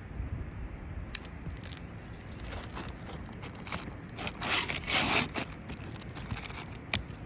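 Scraping and rustling about four to five and a half seconds in, with a sharp click near the start and another near the end, over a low steady rumble: hand work on roof shingles.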